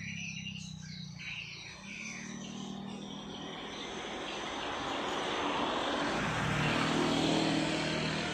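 Small birds chirping briefly at first, then the steady rumble of a passing engine builds up, loudest about two-thirds through, and begins to fade near the end.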